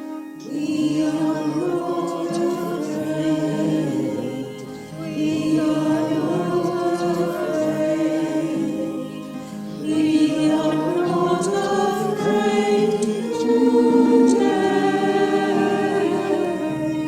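Choir singing a hymn, the voices coming in about half a second in after a keyboard introduction and going on in phrases of four to five seconds.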